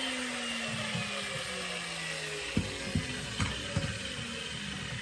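Angle grinder spinning down after being switched off, its whine falling steadily in pitch over the first two seconds or so. Then come four short, sharp knocks about half a second apart.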